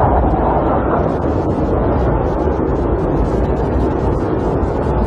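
Snowstorm wind blowing against a camper, a steady rushing noise, with many small ticks of snow striking its shell.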